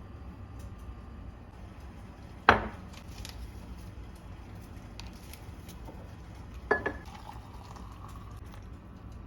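Two sharp clacks of kitchenware being set down or struck, about four seconds apart; the first is the louder, and the second rings briefly.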